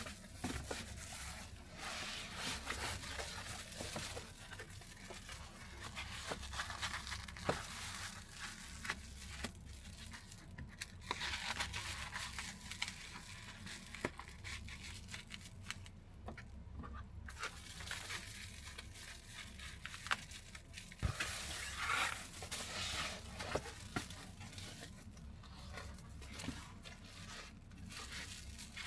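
Rustling and crinkling handling noise with scattered clicks and small knocks, irregular throughout.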